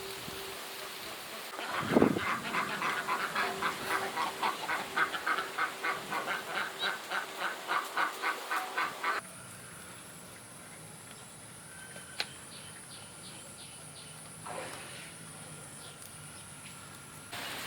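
A rapid run of honking animal calls, about three to four a second, lasting some seven seconds, then cutting off suddenly to a quieter background with a steady high-pitched whine.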